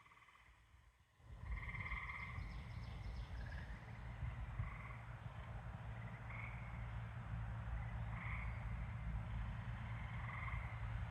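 Frogs calling in short, pulsed notes, repeating every second or two. A low rumble with a steady hum comes in about a second in and runs beneath them.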